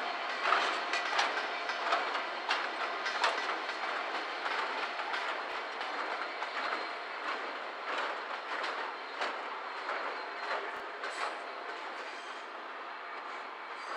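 Freight train wagons running past, their wheels clicking and clattering over the rail joints in quick irregular strikes, the sound fading toward the end as the train draws away.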